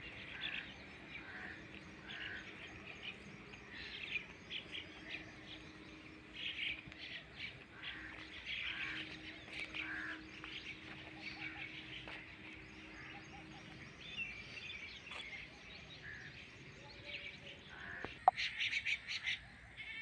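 Small birds chirping and calling, many short calls overlapping throughout.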